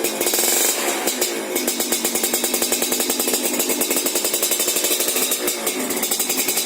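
Yamaha F1ZR two-stroke single-cylinder engine running through an aftermarket racing exhaust, with a fast, even pulsing beat. It is revved up briefly in the first second or so, then settles back to a steady run.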